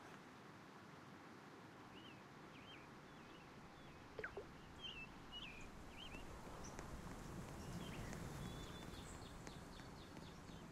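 Faint bird chirps, a string of short calls repeating every half second or so, over low background noise.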